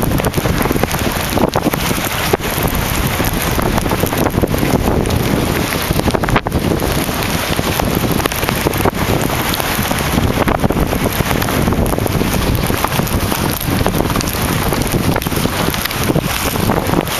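Strong wind blowing over the microphone: a loud, steady rushing noise with small gust-to-gust changes.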